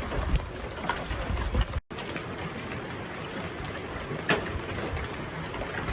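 Wind buffeting the microphone, cut off abruptly about two seconds in. Then a steady hiss of rain with a few sharp taps, the clearest near the end, fitting hailstones striking.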